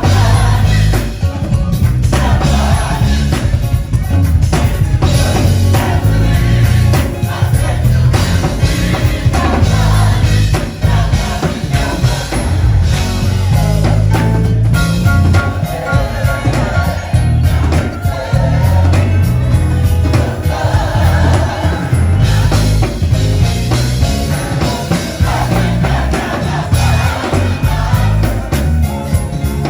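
Live gospel music: a choir singing over a band, with a heavy bass line.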